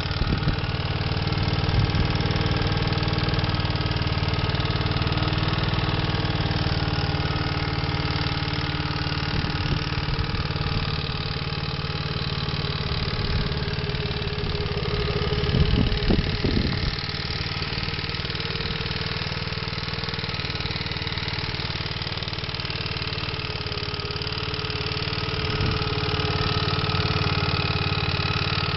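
Honda Today engine idling steadily with an abnormal rattling noise, a 'kara-kara-kara' clatter from the engine. About halfway through it briefly runs louder and rougher.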